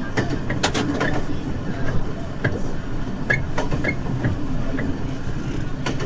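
Diesel train running along jointed track, heard from on board: a steady low engine and wheel rumble with irregular clicks and knocks from the wheels and track.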